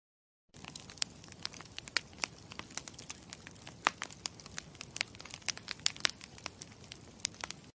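Campfire crackling: a steady low hiss with many irregular sharp pops and snaps. It cuts in about half a second in and stops abruptly near the end.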